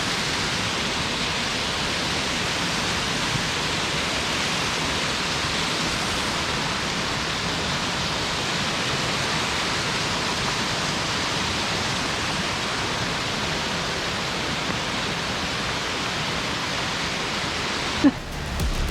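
Steady rushing of the Boyana Waterfall, water falling and splashing without a break. It cuts off abruptly about a second before the end and music begins.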